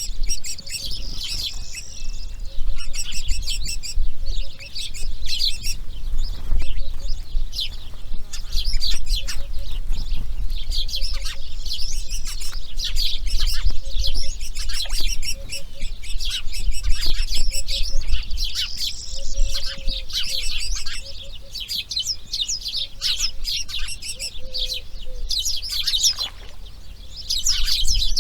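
Birds chirping and calling without a break, many short high calls and trills overlapping, with a low rumble underneath.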